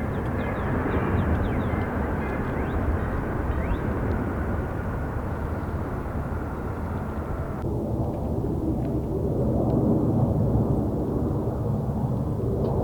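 Jet airliner engine noise mixed with a heavy wind rumble on the microphone. The higher hiss of the jet drops away abruptly about eight seconds in, leaving the low rumble.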